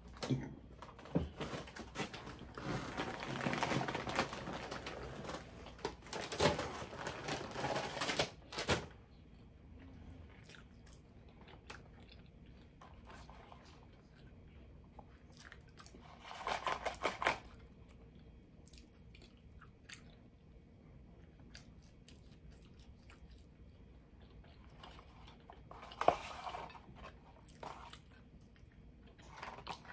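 A person chewing and biting food close to the microphone. The chewing is busiest over the first eight seconds or so, then it goes quieter, with scattered small clicks and a few short bursts.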